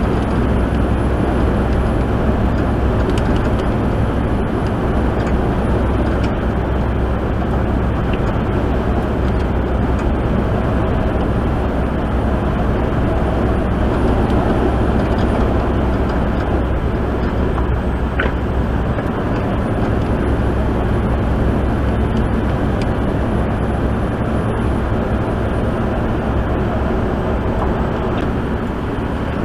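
Steady engine drone and road noise heard from inside a truck cab cruising on the highway, with a constant low hum throughout.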